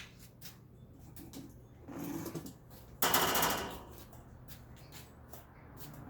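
Plastic vacuum cleaner parts being handled: scattered light clicks and knocks, with a short, loud rush of noise about three seconds in.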